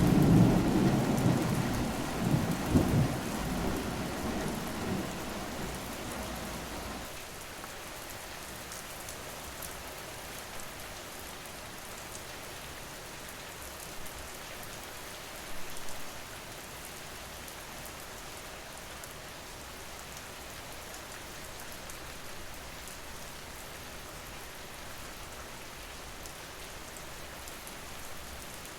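Steady rain falling, with a roll of thunder rumbling at the start that fades away by about seven seconds in. A short louder burst comes about fifteen seconds in, over the even sound of the rain.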